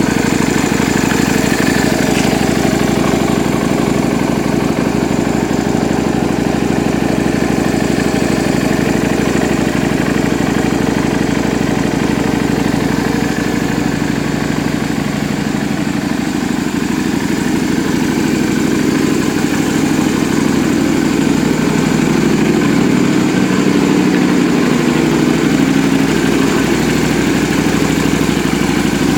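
Yamaha Drag Star 250's air-cooled V-twin idling steadily through a custom aftermarket muffler.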